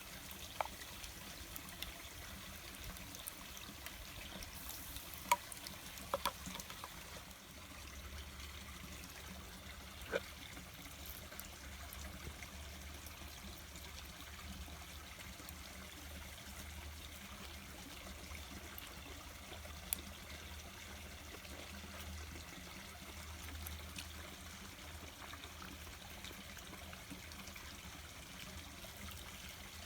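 Water trickling steadily, with a few sharp clicks in the first ten seconds and one more later.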